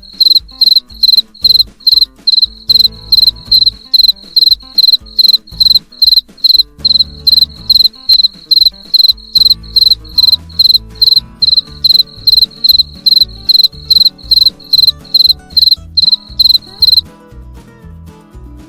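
Grasshopper chirping: short, evenly spaced high chirps at about two and a half a second, stopping near the end.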